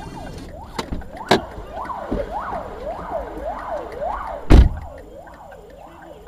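Emergency vehicle siren in a fast up-and-down yelp, each sweep taking roughly two-thirds of a second. It is broken by a few sharp knocks and one loud, heavy thud about four and a half seconds in.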